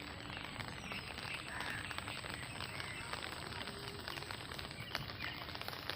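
Outdoor rural ambience: a dense, steady patter of faint ticks, with a few short animal calls now and then.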